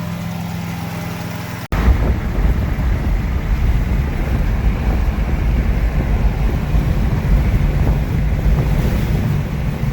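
BMW 330i E46's inline-six engine idling steadily. Then, about two seconds in, it switches abruptly to a loud, low rumble of the car being driven, with heavy wind noise on the microphone.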